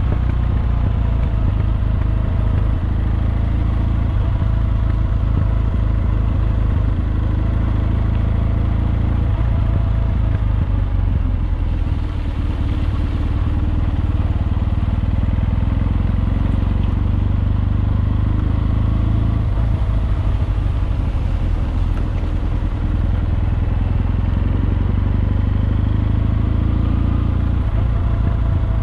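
Kawasaki W650's air-cooled parallel-twin engine running while the motorcycle is ridden, its pitch gently rising and falling with the throttle.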